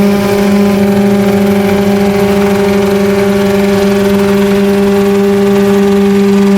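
Homemade coaxial helicopter running steadily, a loud even drone whose pitch holds constant throughout.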